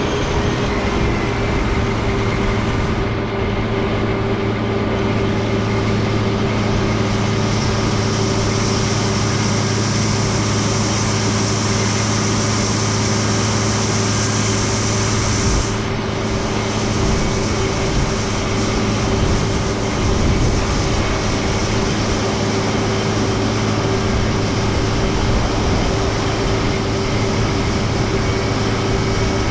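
International 1460 axial-flow combine running steadily under harvest load, a constant engine drone with a steady hum. A higher whine runs alongside for several seconds in the middle.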